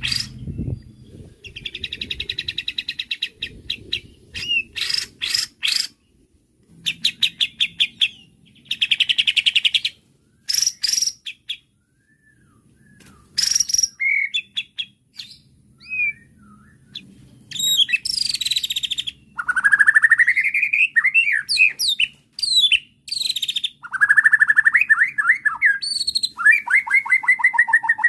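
White-rumped shama singing an agitated, varied song. Fast rattling trills and runs of clicks with short pauses give way to rising slurred whistles and quick descending runs of notes.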